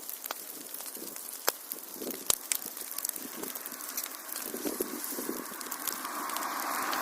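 Wood fire crackling in a fireplace, with scattered sharp pops over a steady hiss. The hiss swells near the end.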